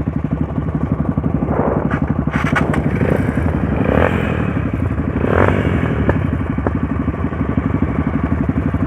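Trail motorcycle engine idling with a steady, rapid beat, with a few clanks and scrapes over it.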